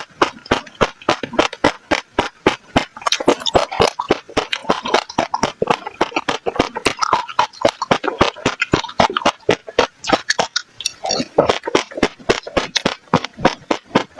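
Passion fruit seeds crunching and popping as they are bitten, close-miked: a rapid run of sharp crisp cracks, several a second, with a brief pause about ten and a half seconds in.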